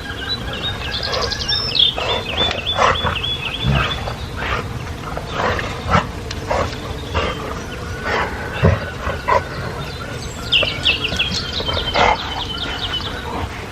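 A small songbird singing a trill of quickly repeated high notes, twice, the second phrase about ten seconds in, over irregular short rustling or scuffing noises close by.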